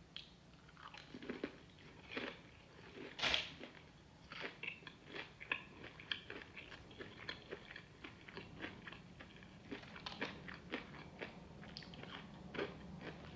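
Close-miked biting and chewing of crispy fried chicken coated in Wingstop hot honey sauce: a run of short, crisp crunches and wet chews, with one loud bite about three seconds in.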